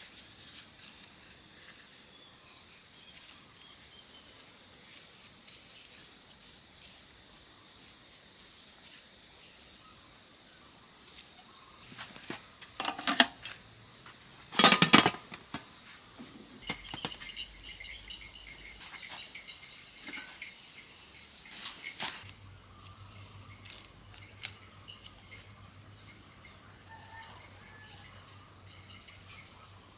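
Insects chirping steadily in a high, pulsing chorus, with a couple of sharp knocks about halfway through, the second the loudest.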